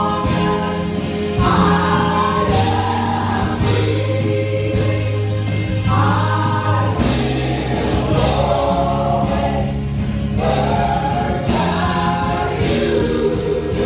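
Gospel praise song sung by a group of voices over a band, with long held bass notes and a steady drum beat.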